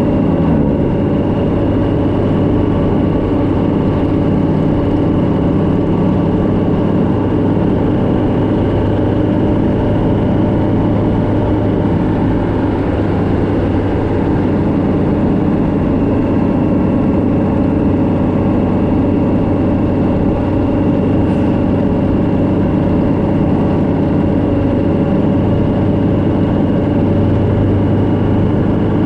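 Vehicle engine running steadily at a constant cruising speed, with continuous road and wind noise.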